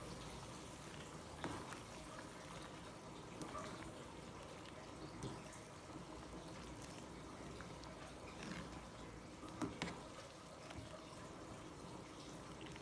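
Faint running or pouring water, with a few light clicks and knocks scattered through it.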